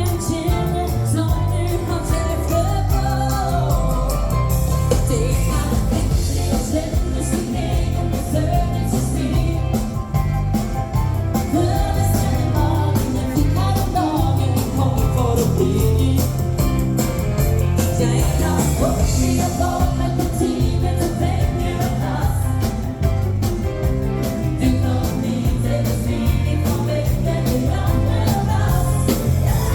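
Live dance-band music with a female singer, bass and drums playing a steady beat.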